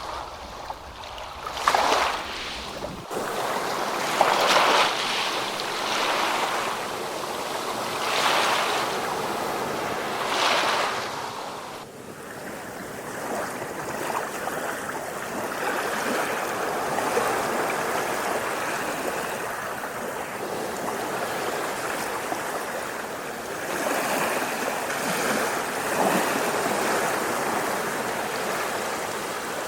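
Ocean waves breaking and washing up the shore, with several distinct surges in the first half. From about halfway through, a steadier continuous rush of water takes over.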